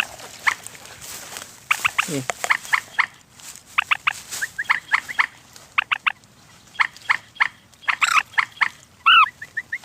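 A rail calling in quick clusters of two to four short, sharp notes, repeated over and over.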